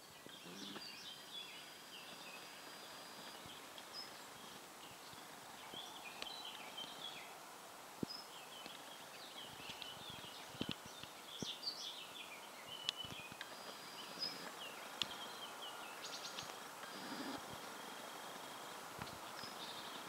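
Small birds chirping, many short high calls overlapping, over a steady background hiss, with a few sharp clicks in the middle.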